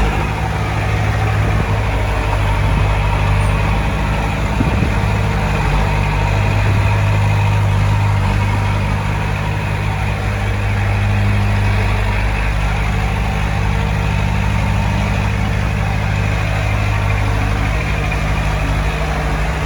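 Heavy diesel earthmoving machinery running steadily, a deep engine hum that swells slightly a few times.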